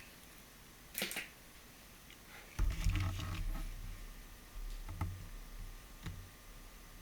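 Handling noises of vacuum cleaner parts: a sharp click about a second in, then a short clatter of knocks with low thuds, then two more single clicks. The vacuum's motor is not running.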